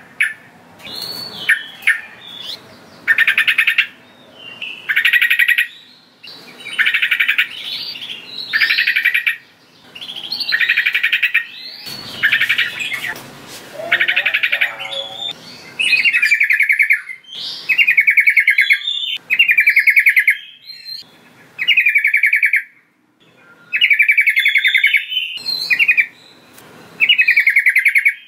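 Sooty-headed bulbul (trucukan) singing: a steady series of short, bubbling phrases about a second long, repeated roughly every two seconds, each made of rapid chattering notes.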